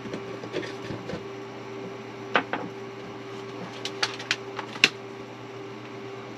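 Scattered light clicks and knocks of kitchen items being handled, a few close together near the middle and a sharper one later, over a steady electrical hum.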